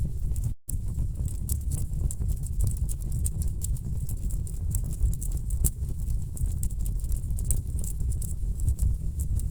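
Wood fire burning in a fireplace: a steady low rumble with dense, irregular crackles and pops of the burning logs. The sound cuts out for a split second about half a second in.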